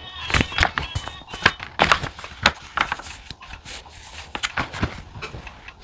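Irregular taps, clicks and short rustles of pen, paper and stationery being handled on a desk.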